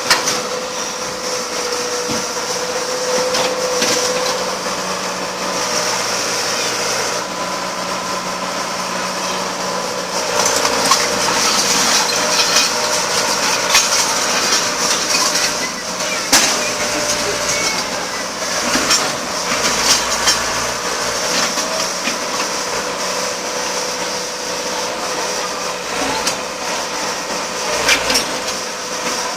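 Backhoe travelling on metal wheels over a concrete road: continuous grinding and clattering of metal on concrete with frequent sharp knocks, over the machine's steady engine hum.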